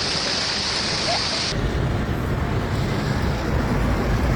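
Steady hiss of heavy rain, which about one and a half seconds in gives way abruptly to wind buffeting the microphone with a heavy low rumble.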